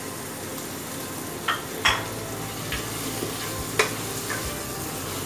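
Prawns sizzling as they are stirred into a hot oily masala in a pan. There is a steady frying hiss, with a few sharp scrapes and knocks of the spatula against the pan.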